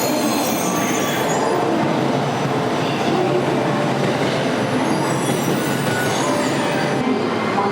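Steady running noise of a train moving on the rails through the station, with thin high wheel squeal in the first second or two.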